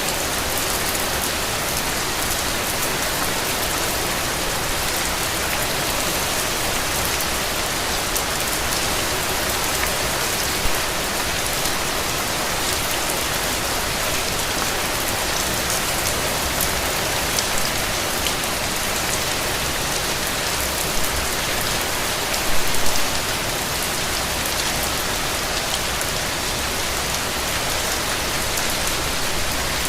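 Steady rain falling on a surface, a constant hiss of fine drops. A few louder spatters stand out, the loudest about three quarters of the way through.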